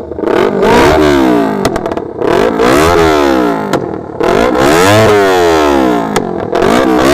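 Motorcycle engine revved hard three times, each rev rising and falling back, with sharp exhaust pops and crackles as the revs drop.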